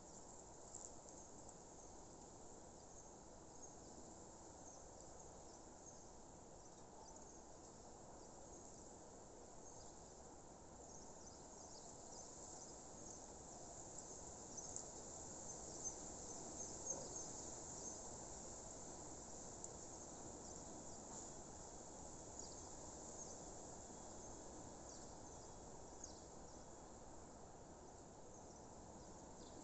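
Faint nature ambience: many short, high chirps, busiest about halfway through, over a soft steady hiss.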